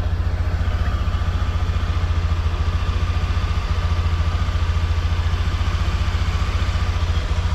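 A small engine running steadily at idle: a low, even chugging of fast regular pulses that does not change.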